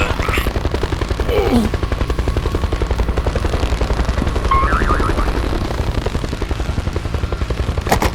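A machine's fast, steady pulsing throb, many beats a second, like a cartoon engine sound effect, with a couple of short sliding squeaks over it.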